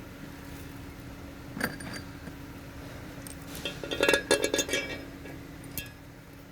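Metal pieces clinking against each other: one clink about a second and a half in, a quick run of clinks around four seconds in, and one more near the end, over a steady low hum.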